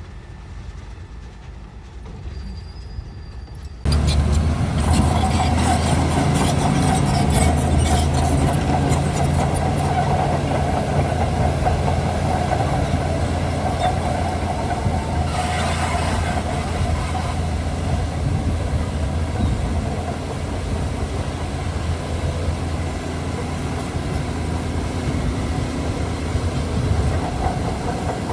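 Shantui DH17C2 bulldozer running: a steady diesel engine drone with metal clanks, becoming suddenly much louder about four seconds in.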